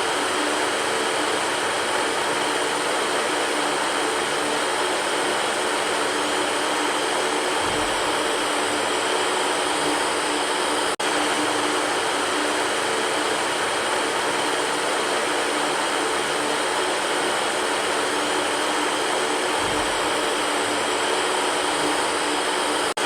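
Electric fan running steadily: an even whooshing noise with a faint motor hum, briefly cutting out for an instant about eleven seconds in.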